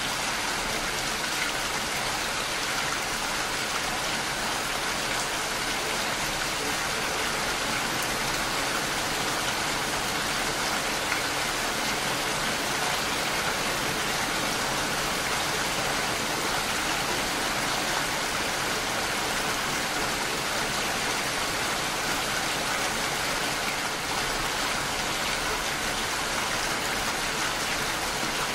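Steady rainfall: an even hiss of falling drops, without pauses or changes.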